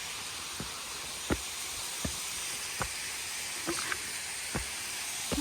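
Footsteps walking at an even pace, a soft thud about every three-quarters of a second, over a steady rushing hiss of flowing water.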